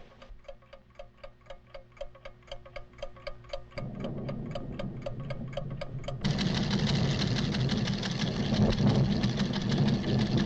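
Rapid, even mechanical ticking, about five ticks a second, from a measuring instrument in an old cartoon soundtrack. A low rumble comes in under it about four seconds in, and about six seconds in a loud, dense rumbling sound takes over and drowns out the ticking.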